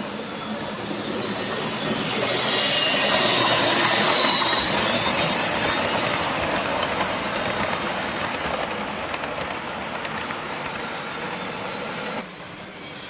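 OO gauge model train running past on the layout, its wheels rattling over the track. It grows louder over the first few seconds, then slowly fades as it moves away, and drops off suddenly near the end.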